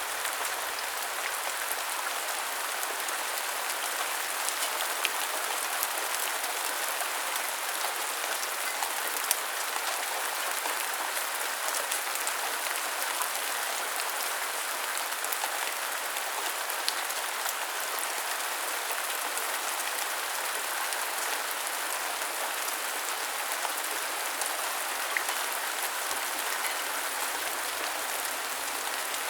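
Steady rain falling: an even hiss with scattered sharper drop ticks now and then.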